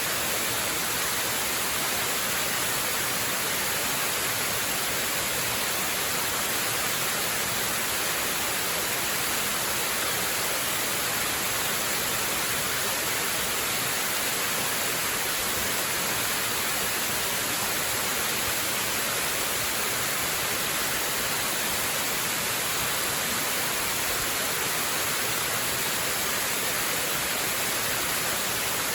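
Waterfall: falling water rushing in a steady hiss, with no single splashes standing out.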